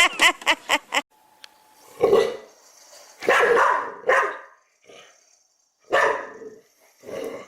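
Dog barking: a fast run of yapping barks that stops about a second in, then several separate barks spaced a second or two apart.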